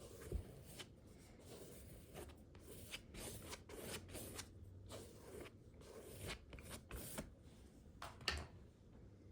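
Palette knife scraping and spreading acrylic paint across textured watercolor paper in a series of short, irregular strokes that stop near the end.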